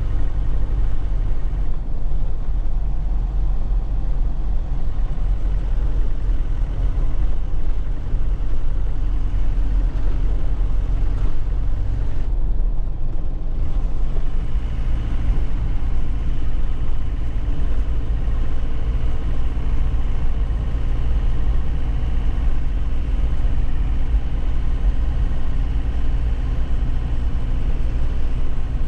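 2001 Nissan Cabstar 106Le light truck's diesel engine running steadily while driving, with road noise from a rough road surface; the engine note dips briefly about halfway through.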